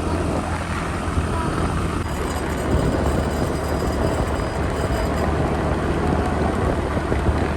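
Steady low mechanical rumble: a constant low hum under an even hiss.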